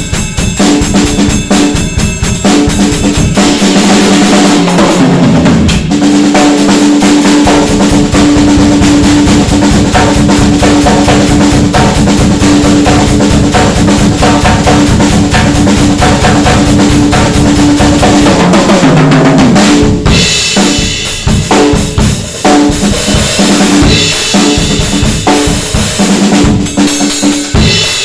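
Drum kit played: a Sound Percussion Labs Unity 2 kit (22" kick, 12" rack toms, 14" snare, 16" floor tom) with Soultone NOA cymbals. It has kick, snare and tom hits under hi-hats, crash and ride. A long, dense, continuous stretch fills the middle, then more separate hits with brighter cymbals from about twenty seconds in.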